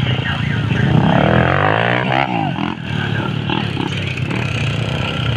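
Several motocross motorcycle engines revving together, their pitches rising and falling and crossing one another.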